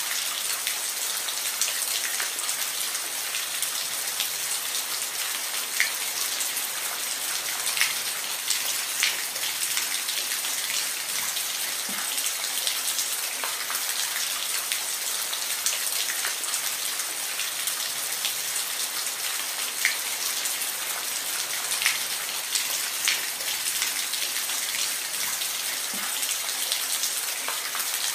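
Steady rain falling, a continuous hiss with individual drops ticking sharply here and there as they hit a surface.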